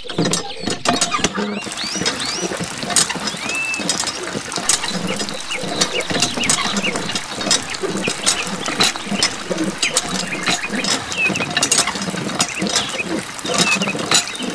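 Small homemade hand water pump being worked, its lever clicking and squeaking while a thin stream of water splashes and bubbles into a small pool. Many small clicks run throughout.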